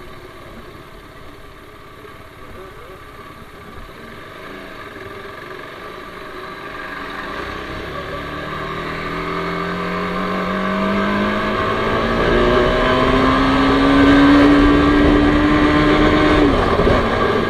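TVS Apache RR310's single-cylinder engine pulling under acceleration, quiet at first, then its pitch and loudness rising steadily for several seconds before the pitch drops suddenly near the end.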